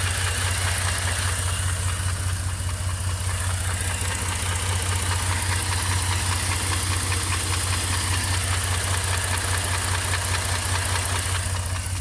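2007 Jeep Cherokee Laredo engine idling steadily with a fast, even knocking in its running, which the owner questions as engine knock.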